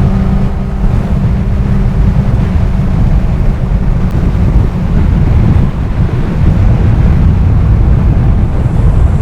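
Wind buffeting the microphone over a motorcycle engine running steadily at road speed, heard on board the moving bike.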